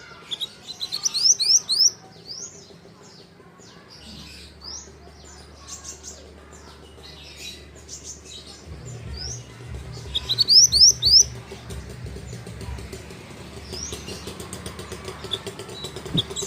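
Mantenan (pied bushchat) singing: groups of four or five quick rising whistled notes, about a second in, midway and again near the end, with scattered short chirps between, over a low steady hum.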